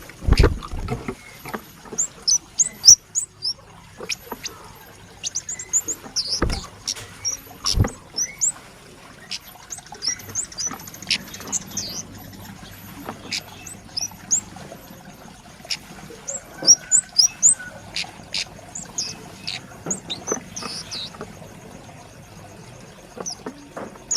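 Young scarlet-headed flowerpecker calling busily: a string of thin, high, sharp chips in irregular runs, with a few sharp knocks mixed in, the loudest near the start and around six to eight seconds in.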